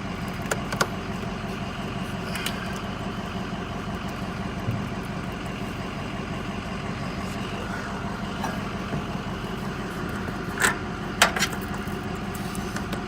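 Truck engine idling steadily, with a few sharp metallic clicks from cable clamps or tools being handled.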